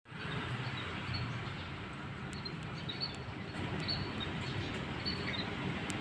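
Outdoor street ambience: a steady background hiss with a small bird chirping over it, short high chirps repeating every second or so.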